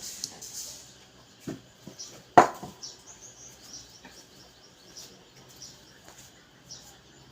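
A few sharp knocks and clicks, the loudest about two and a half seconds in, with small birds chirping steadily in the background.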